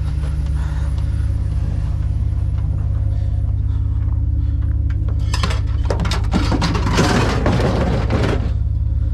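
A truck engine runs with a steady low drone. About five seconds in come a few sharp knocks, then a couple of seconds of clattering, rustling noise.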